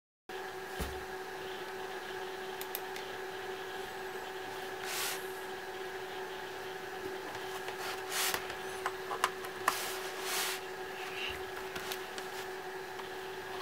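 A steady electrical hum holding several fixed tones, with a few brief shuffling sounds and sharp clicks of small objects being handled on a workbench.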